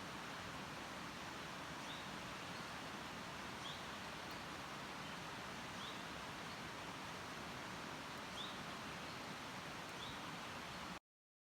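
Outdoor ambience: a steady hiss with a small bird's short rising chirps, one every couple of seconds. The sound cuts off suddenly near the end.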